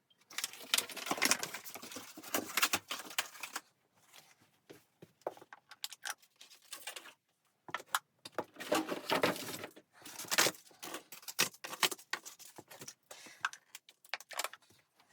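Irregular rustling, scraping and knocking from someone moving about and handling things, in bursts with short pauses and sharp clicks between.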